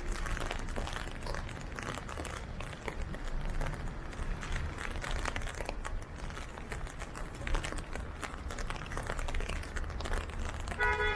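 Rain falling on an umbrella overhead: a dense, irregular run of small drop clicks over a steady low rumble.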